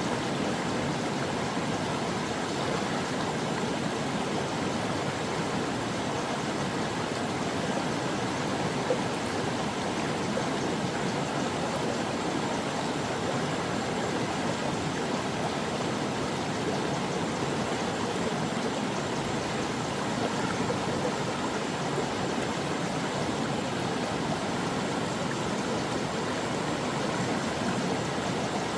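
Steady rushing of a flowing stream over rocks, a constant water noise with no breaks.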